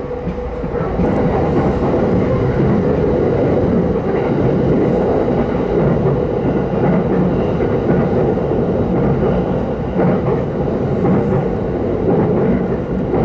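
Steady running noise of an electric commuter train at speed, heard from inside the passenger car: wheels on the track and the car body rumbling. It dips slightly in loudness near the start, then holds level.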